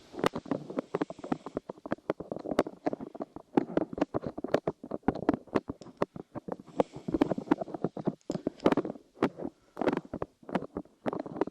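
Light clay being squished and pressed against the microphone's ears, giving a dense run of sticky crackles and clicks over muffled squelching.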